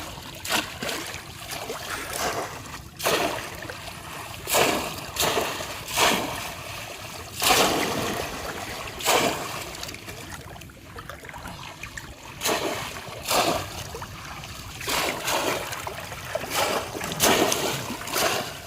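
Repeated splashes in shallow river water, over a dozen sharp hits at irregular intervals, a second or so apart, as bamboo polo fish traps are plunged down into the water. A steady water noise runs underneath.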